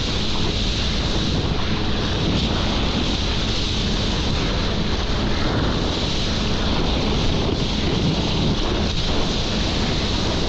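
Steady wind buffeting the microphone over rushing water, with a jet ski engine running underneath.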